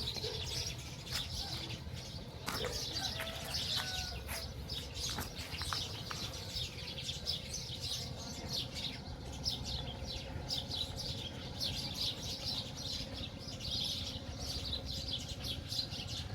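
A flock of small birds chirping and twittering continuously in quick, high-pitched notes, with a few lower single calls in the first few seconds and a steady low rumble underneath.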